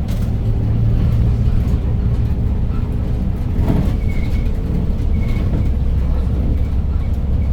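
Hyundai New Super Aerocity city bus under way, heard from inside the cabin: its C6AF Q290 six-cylinder CNG engine runs with a steady low drone mixed with road noise. A brief louder rush comes about halfway through.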